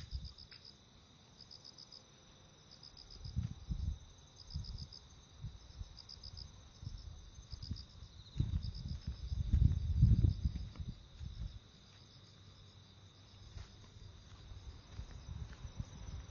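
Crickets chirping: short pulsed trills repeating about once a second over a steady high insect buzz. Low rumbles swell up twice, loudest about ten seconds in.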